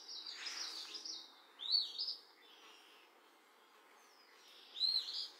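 Birds chirping: a few short, quick calls that rise and fall, about two seconds in and again near the end, over a faint outdoor hiss.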